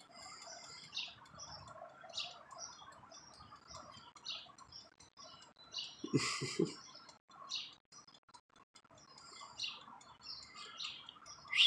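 Small birds chirping in the background: short, high chirps every second or so. A brief louder sound comes about six seconds in.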